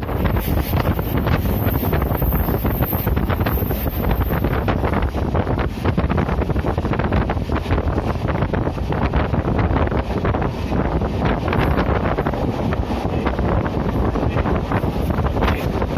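Passenger train running along the track, heard from on board: a steady rumble of wheels on rails with wind buffeting the microphone.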